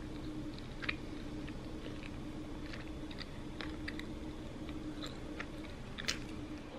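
A person chewing a bite of soft bread spread with jam, with small scattered wet mouth clicks over a steady low hum.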